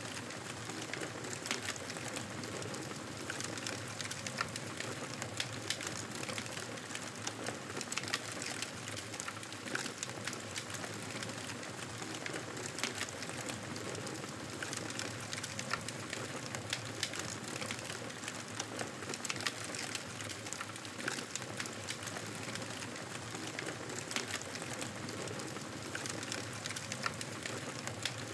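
Campfire burning, a steady hiss with frequent small crackles and pops scattered throughout.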